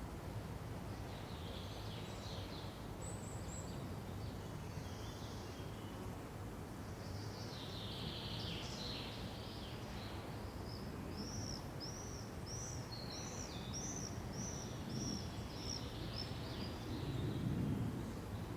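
Songbirds calling over a steady low forest ambience: scattered high chirps, then a run of about a dozen short, arched notes repeated about twice a second. A brief low swell of rustling noise comes near the end.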